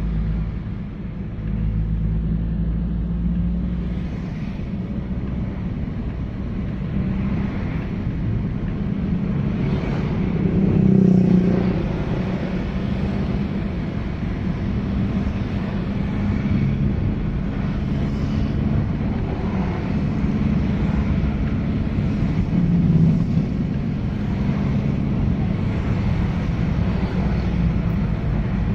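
A motor vehicle engine running steadily with road rumble, swelling briefly twice.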